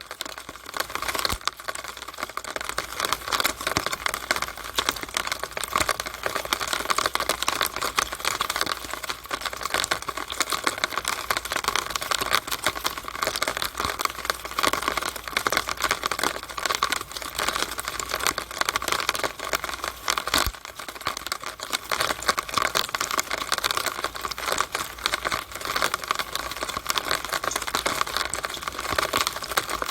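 Rainwater running and dripping inside a downspout in the rain: a dense, steady patter of fast, irregular ticks and small splashes.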